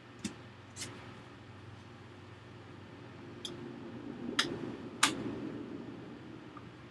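Hard plastic clicks and knocks, about five of them, the loudest two near four and five seconds in, with handling rustle between, as the plastic housing of a 2006 iMac is worked apart.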